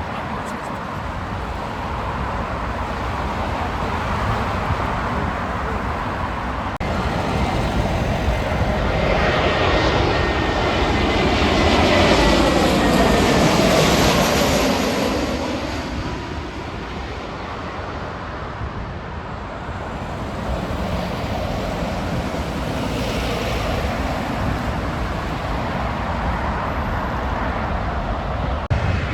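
Jet airliner passing overhead. Its roar builds to a peak about halfway through, with a sweeping, falling whine as it goes by, then fades away.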